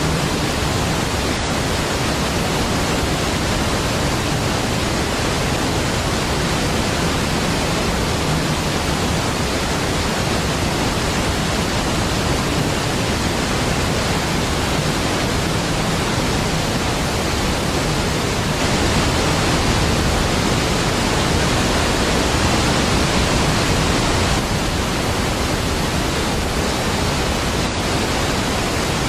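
Large waterfall: a deep, steady rush of falling water, swelling slightly for a few seconds past the middle.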